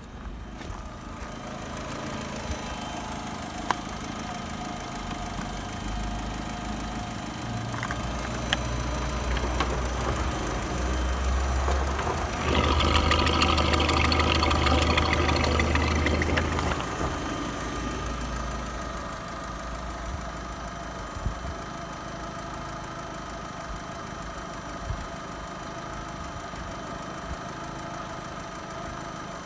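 Opel Zafira A's 1.6 litre Z16XE Ecotec four-cylinder petrol engine idling steadily. For about four seconds in the middle it gets louder with a dense clatter of the valve train, heard through the open oil filler neck with the cap removed.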